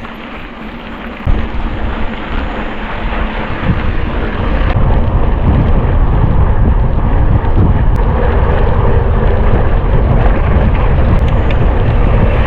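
Wind rushing over the microphone and the rumble of a mountain bike riding fast over rough ground, loud and getting louder about a second in and again about five seconds in.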